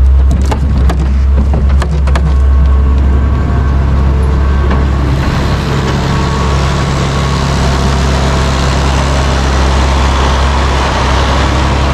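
Tractor diesel engine running steadily under load, a deep, even drone. A few sharp knocks and rattles come in the first two seconds.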